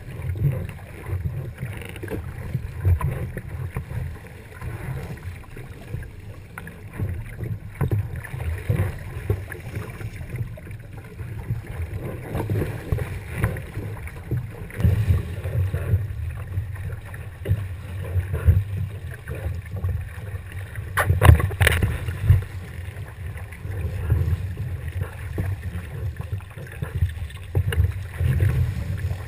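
A sailboat under way: a gusting rumble of wind on the microphone and water rushing along the hull. A sharp knock or two comes about two-thirds of the way through.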